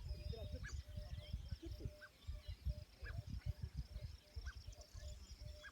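Several small birds chirping and twittering, with a short high pip repeated every half second or so, over an irregular low rumble.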